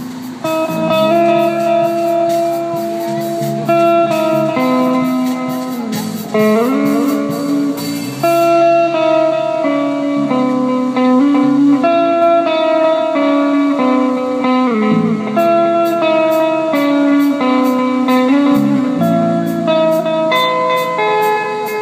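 A live band playing guitar-led music: held chords changing every second or two, with notes sliding in pitch here and there, over a steady ticking beat.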